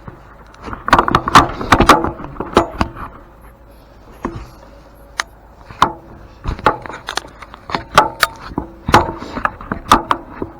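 Irregular metal knocks and clanks of hand tools working on an antique grain mill's burr and fittings, some strikes ringing briefly.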